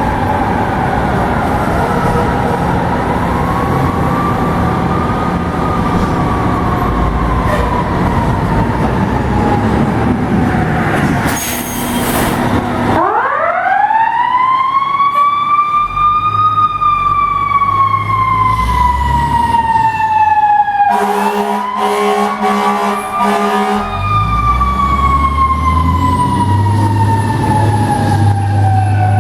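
Fire truck sirens wailing in slow rises and falls, one winding up from low about halfway through. A steady horn blast sounds for about three seconds near two-thirds of the way in, over the rumble of the truck's engine.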